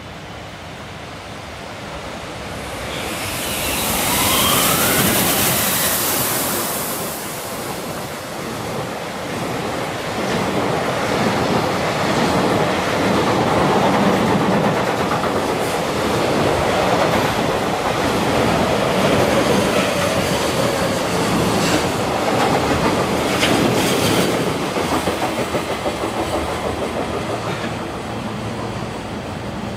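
Freight train passing through at speed: an electric locomotive goes by with a loud rush about four seconds in, then a long string of freight wagons clatters steadily over the rail joints.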